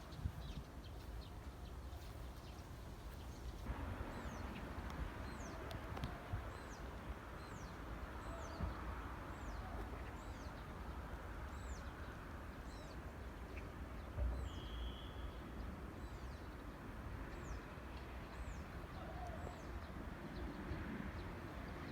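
Outdoor park ambience: a bird repeats a short, high, downward-slurred call about once a second over a steady low background rumble.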